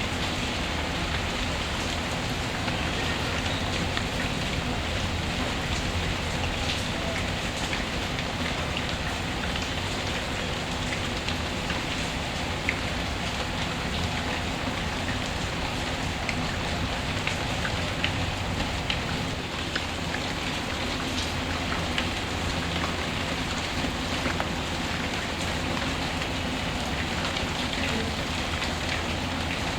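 Steady rain ambience mixed with a crackling fireplace, its pops faint and scattered over the even hiss of the rain.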